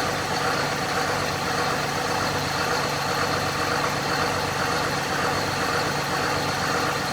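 Allis-Chalmers 8070 tractor's six-cylinder diesel engine idling steadily just after starting.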